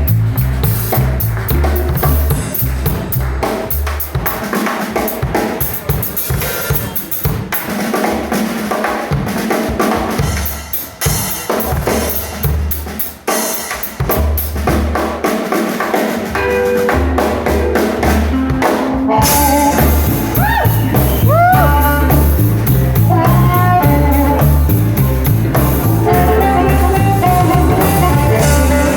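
Live blues band in a drum-led break: busy drum kit with snare and rimshots over a walking bass line. About two-thirds of the way through, the band comes back in louder, with electric guitar bending notes.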